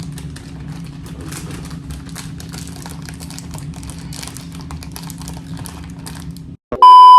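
Plastic candy packaging crinkling and clicking as it is handled, over a steady low hum. Near the end the sound cuts out and a loud, steady censor bleep begins.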